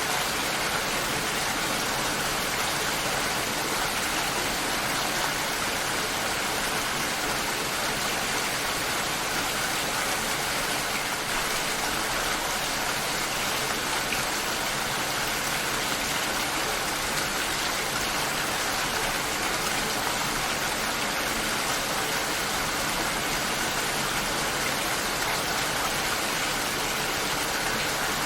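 Steady rain shower falling, an even, unbroken rush of rain.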